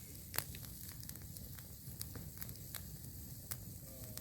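Campfire burning, crackling with scattered sharp pops, the loudest less than half a second in, over a low steady rumble.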